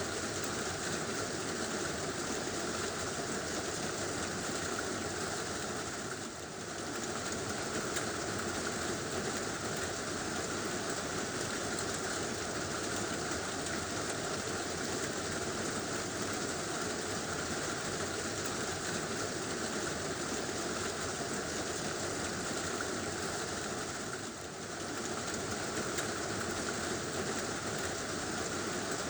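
Heavy rain falling steadily on a tin roof, dipping briefly twice.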